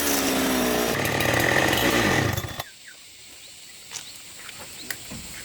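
A small engine running, its pitch falling, then cutting out about two and a half seconds in. A few light clicks and knocks follow.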